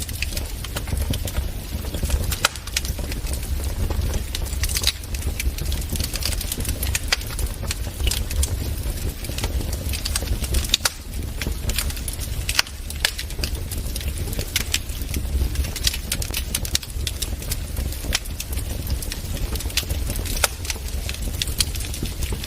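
Wood fire burning in a fireplace, crackling and popping with frequent irregular sharp snaps over a low steady rumble.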